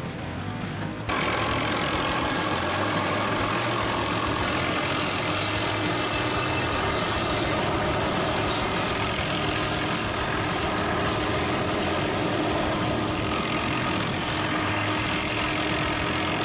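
An engine running steadily, cutting in abruptly about a second in.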